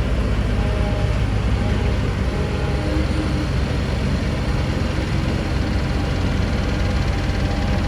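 Heavy diesel engine of earthmoving equipment running steadily under load, a continuous deep rumble.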